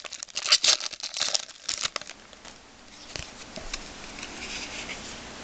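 Trading card pack wrapper crinkling and cards being handled: a run of sharp crackles for about two seconds, then only faint rustling.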